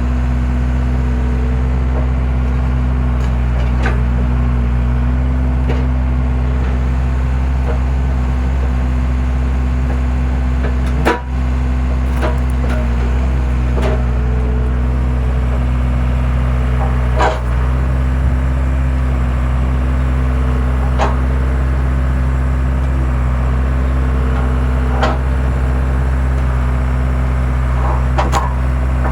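Skid steer engine running steadily while it powers a log splitter, with wood cracking and splitting every few seconds as rounds are forced apart. The sharpest cracks come about 11 and 17 seconds in.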